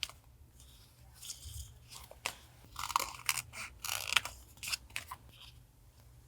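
Paper and craft pieces being handled for a journal collage: an uneven run of crackles, rustles and clicks that stops about five and a half seconds in, over a faint steady low hum.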